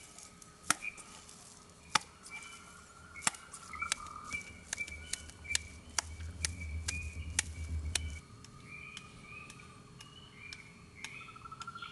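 Wood fire crackling: irregular sharp pops and clicks, a few of them loud. Short repeated chirps sound in the background, and a low rumble comes in the middle.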